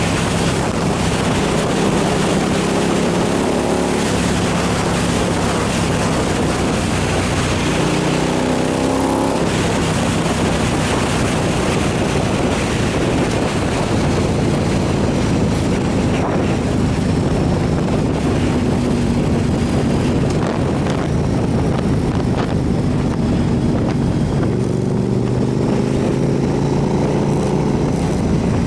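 KTM 990 SMR supermoto's V-twin engine running under way over steady wind noise. The engine note climbs with the throttle about eight seconds in and again near the end.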